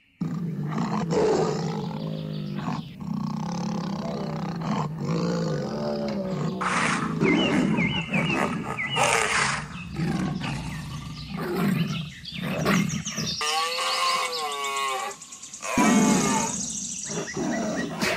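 A string of recorded wild-animal calls, big-cat roars among them, following one another with little pause.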